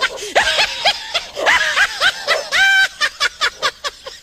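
A person laughing in quick repeated bursts, breaking into a run of short clipped sounds about three seconds in.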